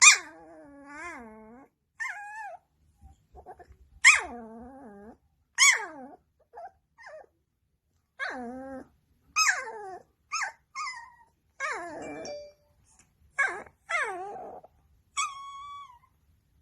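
A dog's whining, yowling 'talking' vocalizations: about fifteen short calls, each starting sharply and bending in pitch, with short gaps between them. The dog is pestering its owner for something, having just been refused a trip outside.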